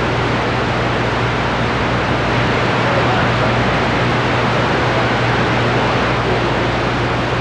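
CB radio receiver hiss and static on the 11-meter band between transmissions, with a steady low hum under it.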